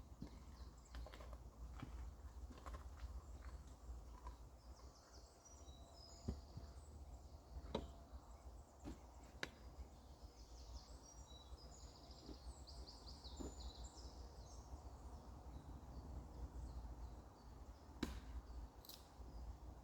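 Quiet woodland ambience with a steady low rumble, small birds chirping in quick high bursts through the middle stretch, and a few scattered sharp clicks and cracks.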